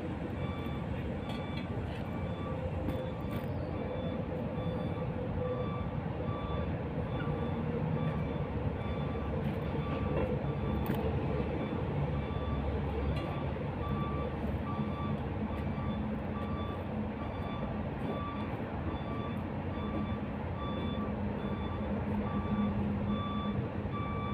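A vehicle's reversing alarm beeping over and over at an even pace, over the steady rumble of a running engine.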